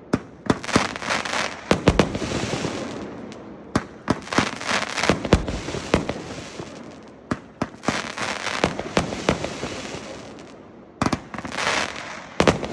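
A 350-gram Pyro Predator firework cake firing. It gives sharp bangs in repeated volleys a few seconds apart, each volley trailing off in a fading hiss.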